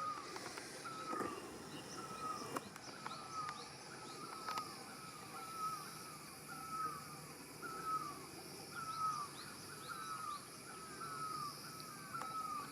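A kitten mewing over and over, short high falling mews at a steady pace of about three every two seconds.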